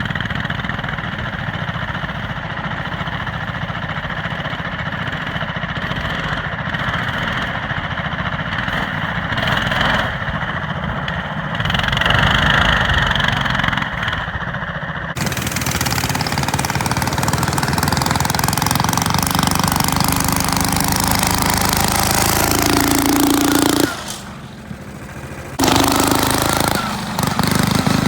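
Coleman CT200U-EX minibike's small single-cylinder engine running under way, climbing in pitch about twelve seconds in. From about halfway a loud hiss joins it, and the sound drops away briefly near the end before the engine returns.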